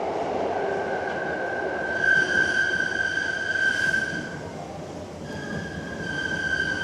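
Hankyu 7300-series electric train running through a tunnel, heard from inside the car: a steady rumble of wheels and motors with a high, steady-pitched wheel squeal in two long stretches with a short break between them.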